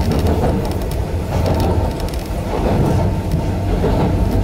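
Yokkaichi Asunarou Railway 260 Series narrow-gauge electric train running along the track, heard from inside the driver's cab: a steady low rumble of wheels and motors with occasional light clicks.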